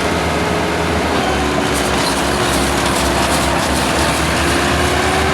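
A vehicle engine running steadily, with road rumble and a light rattle in the middle.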